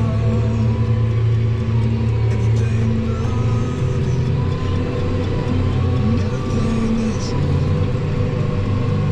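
Large diesel tractor engine running steadily under load, with a steady hum and a faint whine above it.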